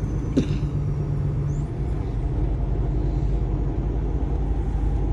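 Kenworth T680 semi truck driving: steady low engine drone and road rumble, with a brief click about half a second in.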